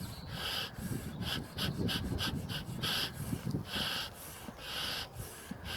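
Bellows of a beekeeper's smoker being squeezed, each squeeze giving a short hissy puff of air. A quick run of small puffs comes between about one and two and a half seconds in, then slower single puffs about once a second.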